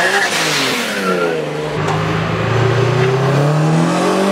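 Sports cars accelerating past one after another: one engine note peaks right at the start and drops away over the first second, then another engine holds a steady note that slowly climbs.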